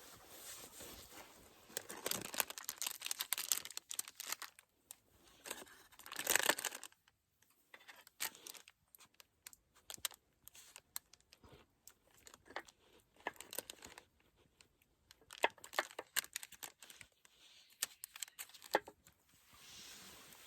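Crinkling, rustling and tearing of handled material, in irregular bursts with many sharp little clicks.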